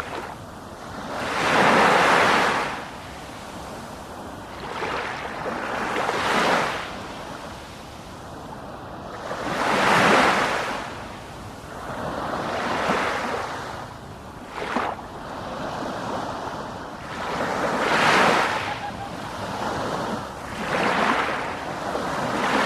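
Ocean waves breaking on the shore. The rushing surf swells and falls back every few seconds, with one short sharp splash about two-thirds of the way through.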